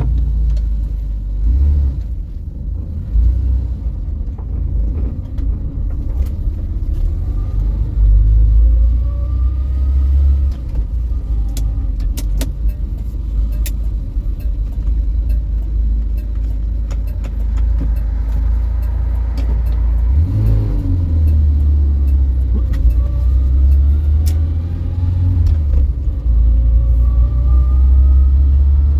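1975 Vauxhall Viva HC on the move: a steady low engine and road rumble, with whines that rise and drop back as it pulls through the gears. The driver takes the noise for a gearbox short of oil, or one that is worn out.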